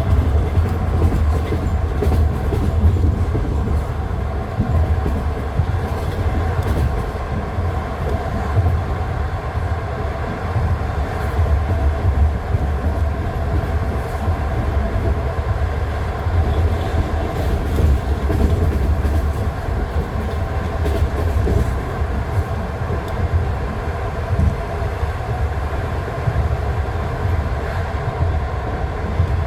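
Passenger train wheels clicking over the joints of jointed rail track, over a steady low rumble, heard from inside a carriage on the move.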